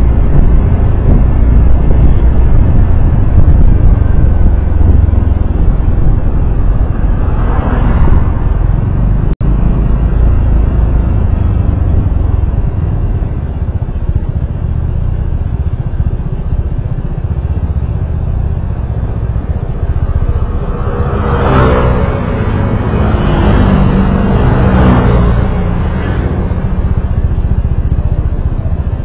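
Road noise from a moving vehicle: a heavy, steady low rumble of wind and tyres. About three-quarters of the way through, an engine's pitch rises in steps as the vehicle accelerates.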